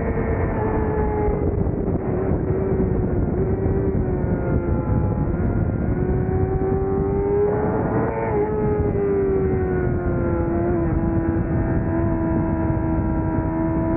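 600cc racing motorcycle engine running hard over a steady rush of wind. Its note sags and climbs gradually as it is ridden around the track, with a short rise and fall about eight seconds in.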